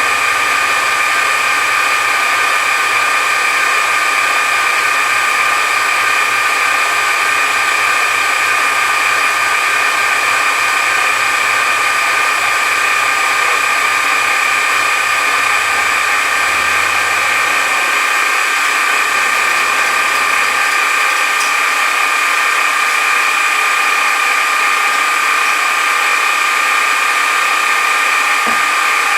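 Metal shaper running a cutting pass on a gear blank, its motor and drive giving a loud, steady whine.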